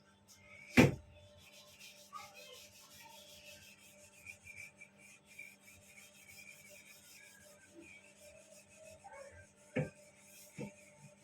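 Fast scratchy rubbing strokes of something being drawn or written on a surface, with a sharp knock about a second in and two smaller knocks near the end.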